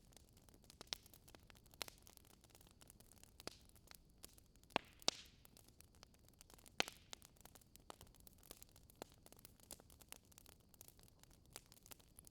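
Faint crackling of a log fire: scattered sharp pops and snaps over a soft hiss, with a few louder pops about five and seven seconds in.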